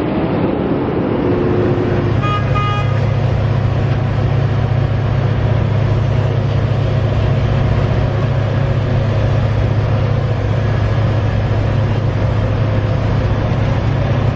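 Heavy construction trucks' engines running with a steady low rumble, and a short horn toot about two seconds in.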